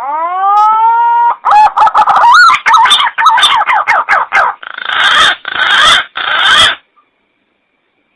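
Green pigeon (punai) call played as a hunting lure. It opens with a rising whistle, runs into a quick series of warbling, wavering notes, and closes with three harsh, rasping bursts before stopping about seven seconds in.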